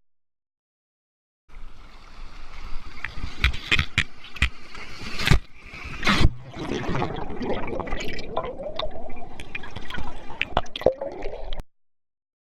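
Sea water splashing and gurgling close to the microphone, with sharp knocks and clicks scattered through. It starts after about a second and a half of dead silence and cuts off about a second before the end.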